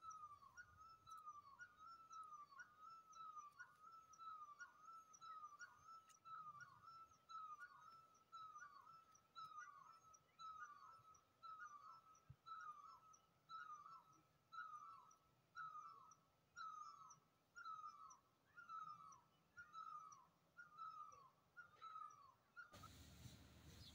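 Faint bird call: a short, falling, whistle-like note repeated in a steady rhythm about once a second. About a second before the end the calls stop and a louder steady hiss takes over.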